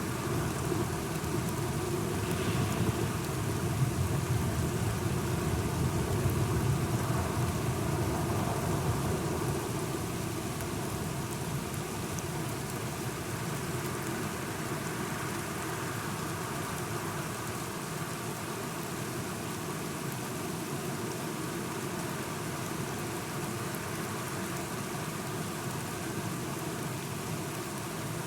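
Steady rain falling, with a low rumble of thunder that is louder over the first ten seconds and then fades back into the rain.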